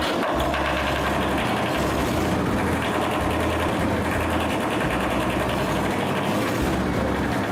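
Repaired tractor diesel engine running steadily at idle.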